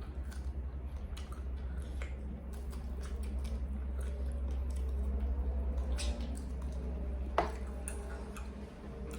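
A person eating close to the microphone: wet chewing and squelching mouth sounds with scattered small clicks, over a steady low hum.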